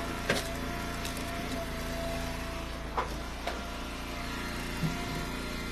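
Wood splitter's engine running steadily, with a few sharp knocks of firewood being split and dropped, about a third of a second in and twice around three seconds in.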